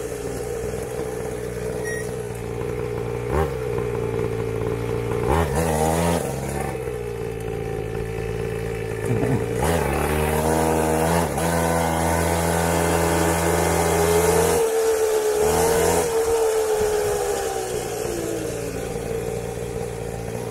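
Small 49cc two-stroke pocket bike engines running: one holds a steady note while engine pitch climbs and drops several times as the bikes rev and pass, loudest in the middle.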